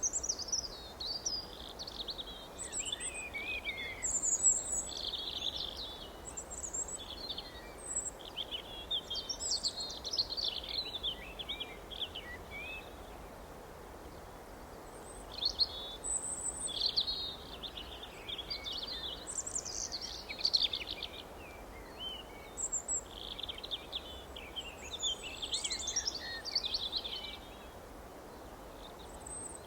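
Songbirds chirping in quick, busy phrases, with a pause about halfway through and another near the end, over a steady background noise.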